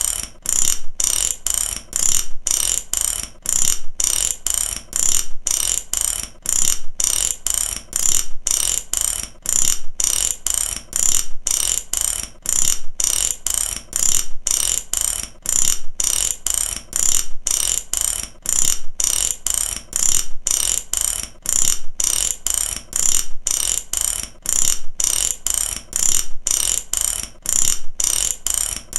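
Mechanical ratchet clicking over and over, its pawl snapping across the teeth in a steady repeating rhythm of sharp clicks, a few per second, with short breaks between clusters.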